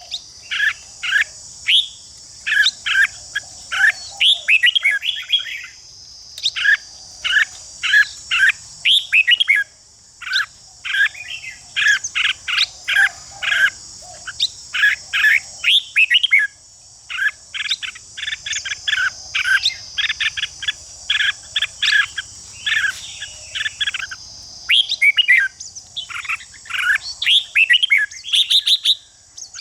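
Red-whiskered bulbul song: quick, varied whistled phrases repeated one after another with short gaps. A steady high hiss sits underneath.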